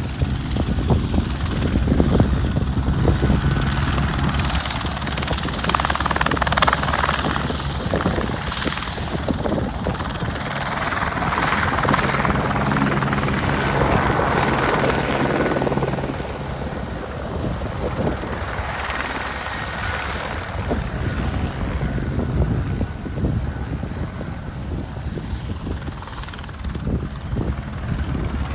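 Aircraft engine noise overhead: a continuous rumble with a steady low drone that swells louder twice and then eases off.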